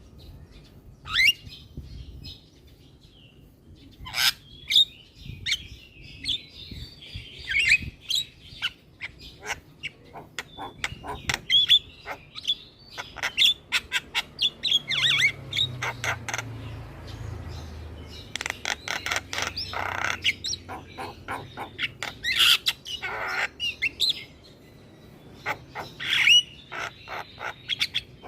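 Javan myna (jalak kebo) singing at length in a busy mix of chirps, whistled notes and harsh squawks, with quick volleys of short notes.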